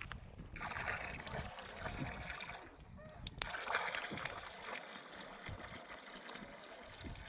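Water trickling and splashing, in two stretches with a short lull near the middle and a few sharp clicks.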